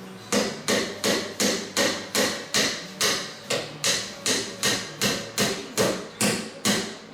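Hammer driving small nails into wood, a steady run of sharp blows at about two and a half a second.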